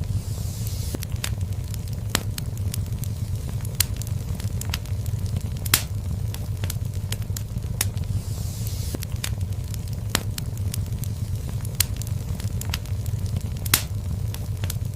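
Wood fire burning in a fireplace, with a steady low rumble of flames and irregular sharp crackles and pops. Two louder pops come about six seconds in and near the end.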